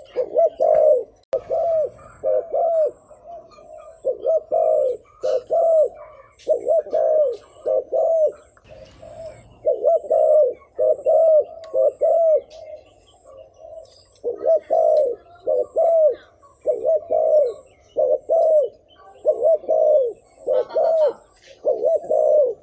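Spotted dove cooing over and over: short arched hoots that come in quick groups of two to four, with brief pauses between the groups.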